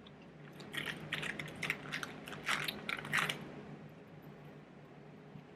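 Close-up crunching and chewing of a crisp snack in the mouth: a run of sharp crunches over about the first three seconds, then softer, quieter chewing.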